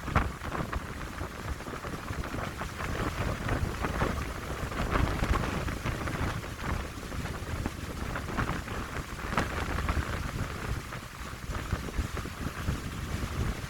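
Wind blowing through pine trees in a steady rushing hiss that swells and eases, with gusts buffeting the microphone as a low rumble.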